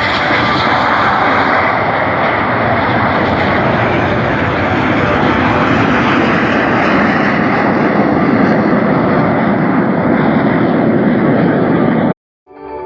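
Aircraft engine noise from a pass overhead: a loud, steady rush that slowly grows duller, then cuts off abruptly near the end.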